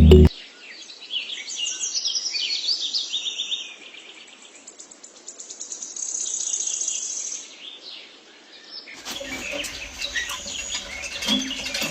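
Birds chirping in short, rapid trills, twice. About nine seconds in the sound changes to a stretch of many light clicks and taps.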